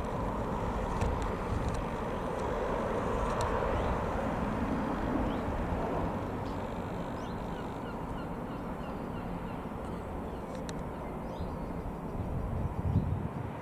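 Jet airliner engines, a Boeing 737-800, running with a steady rumble. A small bird chirps several times in quick succession near the middle.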